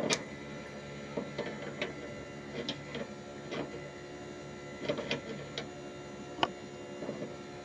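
Split air conditioner unit humming steadily, with irregular sharp clicks and taps of hand work on it roughly every second; one sharp tap right at the start and another just after six seconds in are the loudest.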